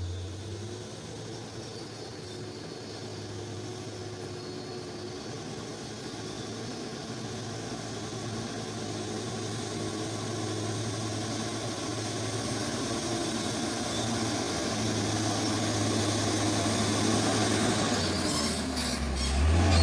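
Loaded coal truck's diesel engine pulling hard up a long climb at full power, a steady low drone that grows gradually louder as the truck approaches, with a few short knocks near the end.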